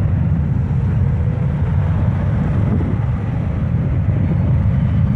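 Jet engines of a Southwest Boeing 737 at takeoff power: a steady, loud, deep roar.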